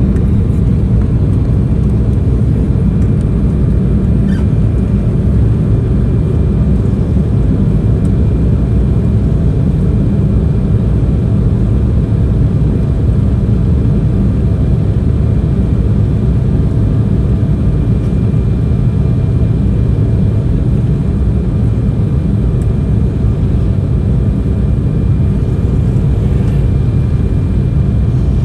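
Steady cabin noise inside an Embraer E190 airliner: a loud, even low rumble of airflow and its GE CF34 turbofan engines, with a few faint steady whining tones above it.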